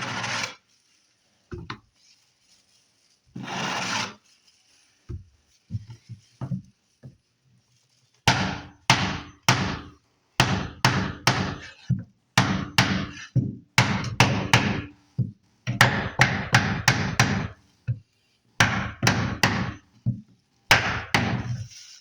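Hammer knocking on a beating block to drive a laminate plank into place, in quick runs of sharp knocks from about eight seconds in. Before that come two short scrapes and a few light taps.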